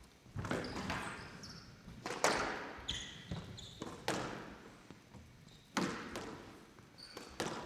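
Squash rally: sharp cracks of the ball off racket and walls every second or two, each ringing briefly in the hall, with short high squeaks of court shoes between shots.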